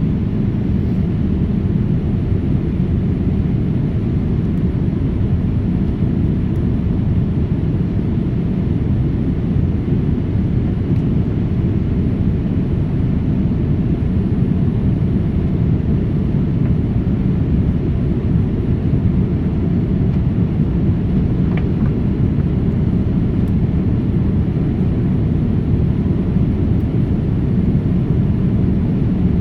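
Steady low rumble of a jet airliner heard from inside the passenger cabin, with its engines and airflow running evenly.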